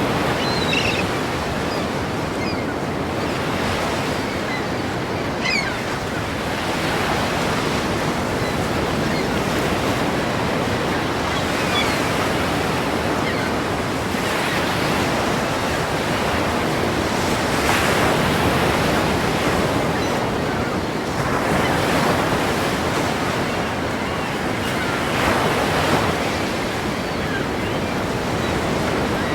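Ocean waves breaking against a pier: a continuous wash of surf that swells into a louder crash every few seconds.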